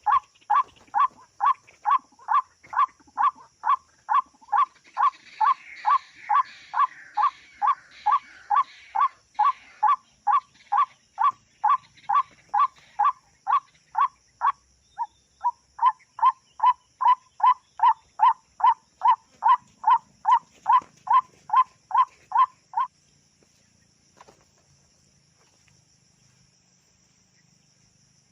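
White-breasted waterhen (ruak-ruak) calling: a monotonous repeated 'kruak' note, about two and a half a second, which stops abruptly about 23 seconds in.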